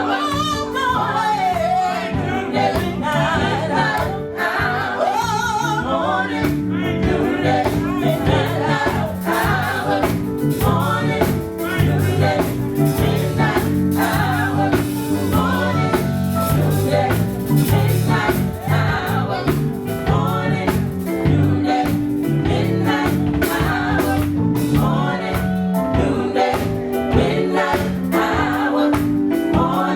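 Live gospel singing with a band: a lead voice and group vocals over held low notes and a steady drum beat.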